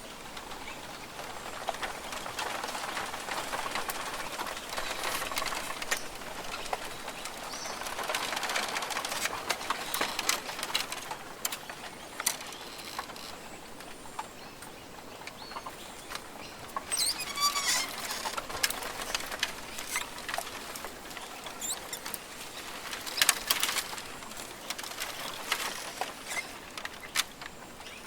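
Australian rainforest ambience: a steady hiss of foliage with irregular rustling, patter and clicks. A short warbling bird call comes in just past halfway.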